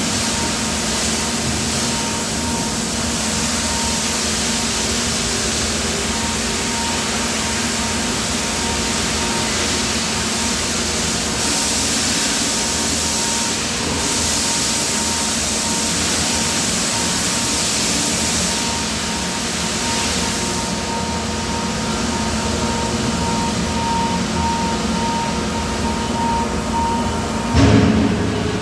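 Steady din of die casting machinery on a factory floor: a constant hiss with a steady whine and hum, and one loud sudden clunk about a second before the end.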